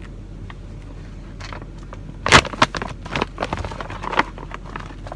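A thick plastic MRE ration pouch is ripped open and its packed contents crinkle and rustle: one sharp tear a little over two seconds in, then a couple of seconds of crackling. A steady low hum runs underneath.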